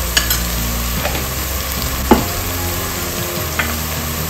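Onion paste and freshly added ground spices frying in oil in a pot, a steady sizzle with a few sharp clicks scattered through it.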